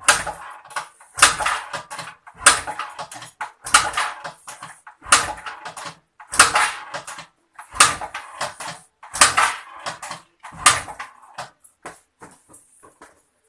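A 2018 Suzuki Skydrive 125 FI scooter being kick-started about nine times in a row, a clattering stroke roughly every second and a half, the engine never catching: with the battery flat after six months standing, it won't start.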